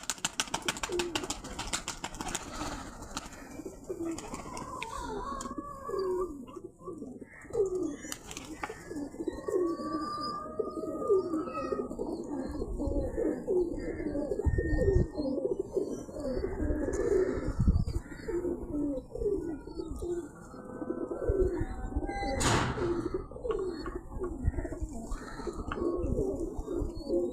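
Domestic pigeons cooing, several birds calling over one another in a steady run of short, repeated coos.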